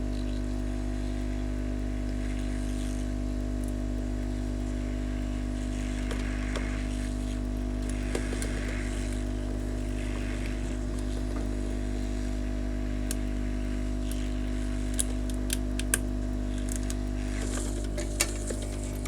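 Hot air rework gun blowing steadily with a constant electrical hum as it heats a surface-mount chip to melt its solder. A few light clicks come near the end as the chip comes free.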